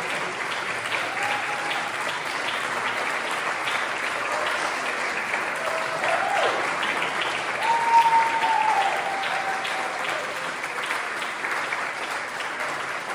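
Audience applauding steadily, with a few cheering voices rising above the clapping, the loudest about two-thirds of the way through.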